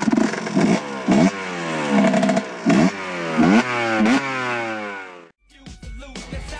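Kawasaki KDX 125's single-cylinder two-stroke engine revved in about seven quick blips, the pitch climbing each time. It cuts off suddenly about five seconds in, and music comes back in.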